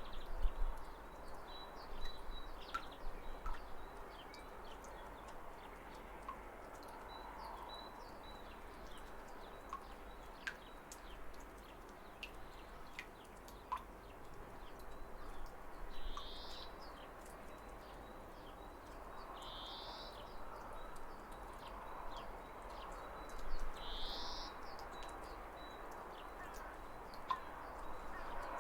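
Steady rushing of a waterfall with birds chirping over it. In the second half a bird gives a short rising call about every four seconds, and small sharp ticks are scattered through.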